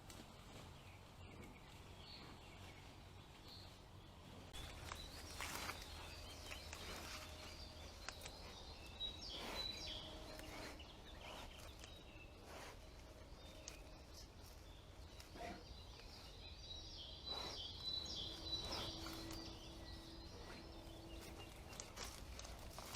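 Faint forest ambience on a trail camera's microphone: scattered rustles and soft knocks, with birds chirping in the background.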